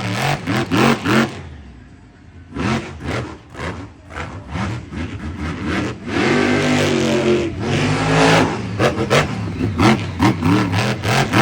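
Monster truck engine revving hard in short repeated throttle blasts, easing off briefly about two seconds in and again around four seconds, then held at high revs for about two seconds from around six seconds in, followed by quick throttle blips.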